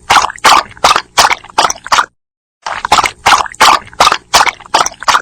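A dog lapping water from a bowl: quick wet laps at about three to four a second, in two runs with a short pause between them.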